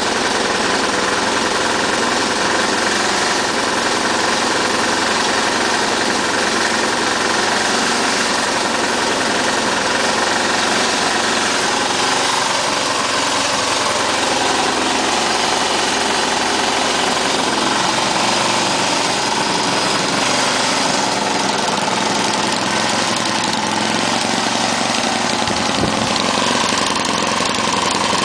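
Small lawn mower engine fitted with a Pantone water-doping system, running steadily, its pitch wavering slightly about halfway through.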